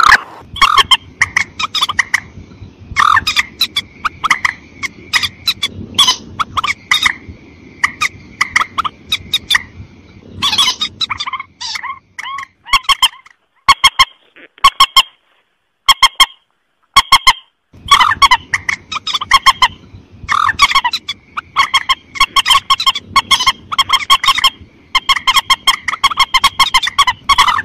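Mandar (rail-family waterbird) lure calls: rapid series of harsh, clucking, honk-like notes, played as a call to draw the birds in. The calling breaks off briefly a few times near the middle, then resumes just as densely.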